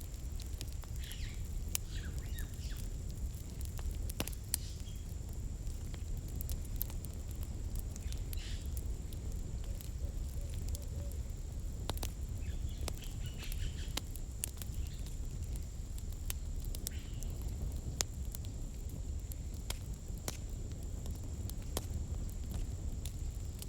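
Wood campfire crackling: irregular sharp pops and snaps over a steady low rumble of burning flames.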